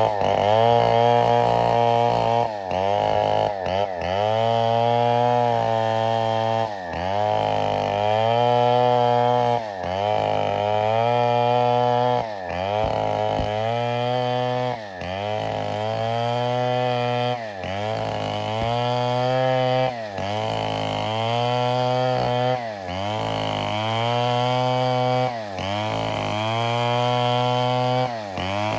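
Gas chainsaw running at high revs while cutting wood, its pitch sagging and recovering about every two and a half seconds as the chain bites into the cut.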